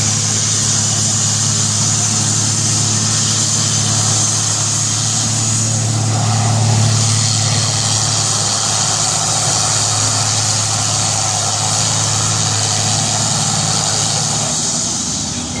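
A tractor engine running steadily at a low, even speed, swelling a little about six or seven seconds in.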